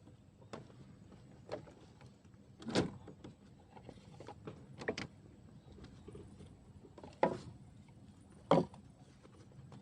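A series of irregular knocks and thumps over a low steady background, the loudest about 3, 7 and 8.5 seconds in.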